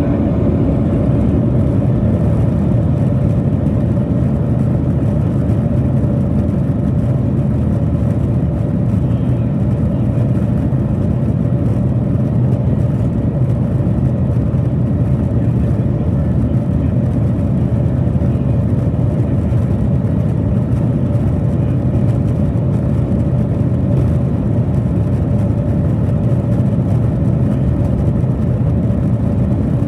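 Cabin noise inside a Boeing 737-900ER on takeoff: its CFM56-7B turbofan engines running at high thrust, a steady loud low rumble with a constant hum on top.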